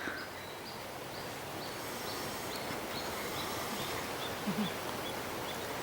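A bird calling a short high note over and over, about two or three times a second and fading toward the end, over a steady outdoor hiss.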